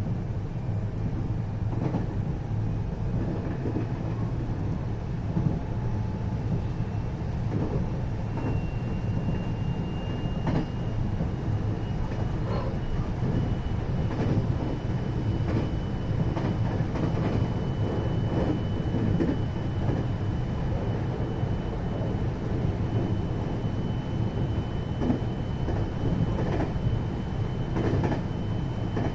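Interior running sound of a 521 series electric multiple unit's motor car on the move: a steady rumble of wheels on rail with scattered clicks over rail joints. A thin high whine rises slightly about a third of the way in and then holds steady.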